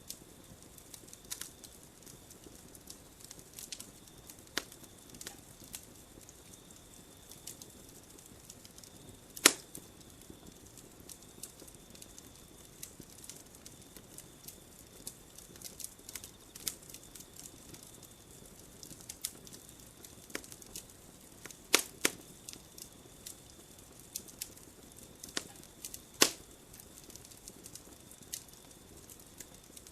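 Campfire burning and crackling, with scattered sharp pops of varying strength; the loudest come about 9 seconds in, twice just before 22 seconds, and about 26 seconds in.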